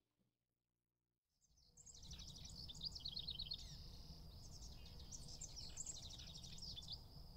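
Faint songbird song, rapid high trills and chirps starting about a second and a half in, over low background noise.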